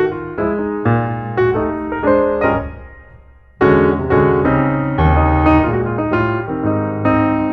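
Background piano music: notes struck in succession. It fades away a little past halfway, then comes back in loudly with a new phrase.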